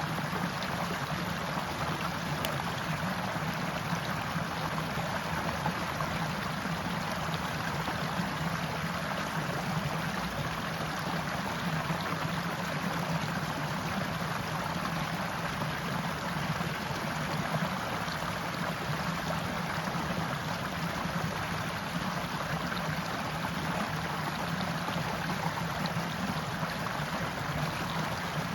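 Stream water flowing and gurgling over rocks in a steady, unbroken rush.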